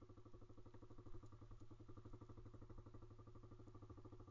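Faint pit bike single-cylinder engine running steadily with an even, rapid firing pulse.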